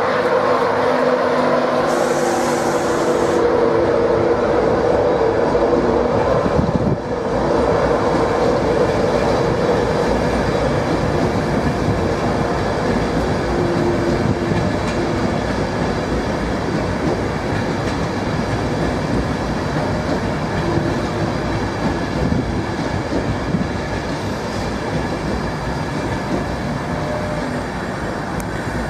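A train running along the track with continuous wheel and rail noise, easing off slightly toward the end.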